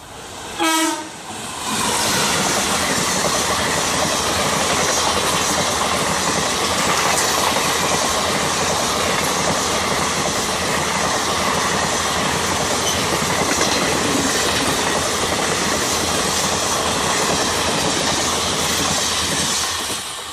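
Electric-hauled Indian Railways express train: the electric locomotive sounds a short horn blast about a second in, then the train passes close at speed, its coaches' wheels rattling over the rails in a loud, steady rush that fades near the end.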